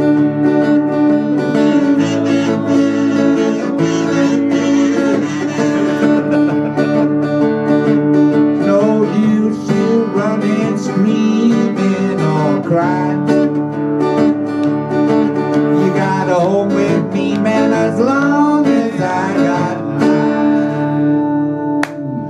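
Acoustic guitars playing an instrumental passage of a country-blues song: a strummed rhythm under a lead line with bending notes. The music breaks off near the end.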